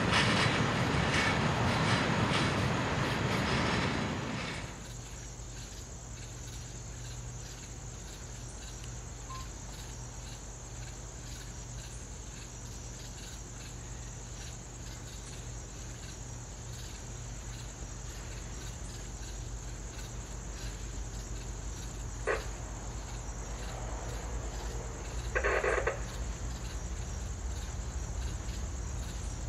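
A freight train's cars rolling past on the rails, fading out about four and a half seconds in. After that, a steady high chirring of night insects, likely crickets, remains, with a single click and a brief pitched call or horn note near the end.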